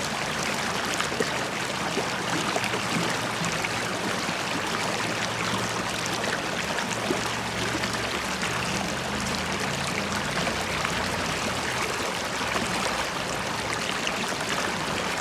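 River water flowing and bubbling over stones, a steady rush with many small splashes and gurgles.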